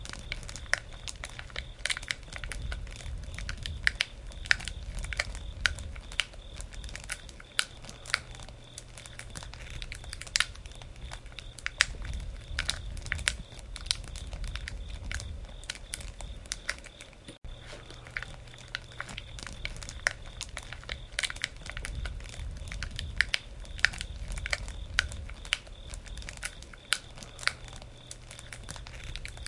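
Wood campfire crackling, with irregular sharp snaps and pops over a low rumble of the flames. The sound drops out for an instant about two-thirds of the way through.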